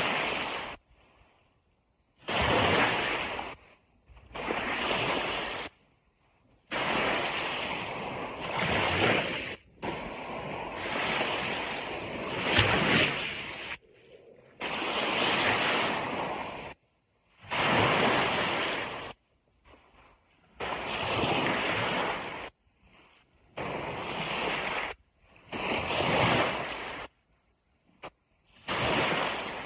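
Sea waves washing on a beach in a run of surges, each a second to a few seconds long, that cut off abruptly into near silence between them.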